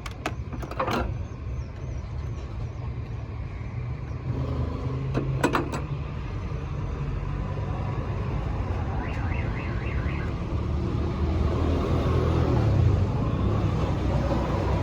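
An engine running steadily with a low rumble that grows slightly louder. A few sharp clicks come near the start and again about five seconds in.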